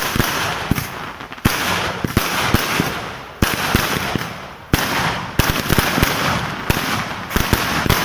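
Vedikettu fireworks display: a rapid, continuous volley of firecracker bangs and crackling, with heavier booms about a second and a half in, at three and a half seconds and near five seconds.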